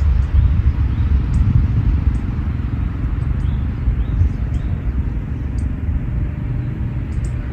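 Wind buffeting the microphone in gusts as a low, irregular rumble, with a few faint, brief high chirps of small birds scattered through it.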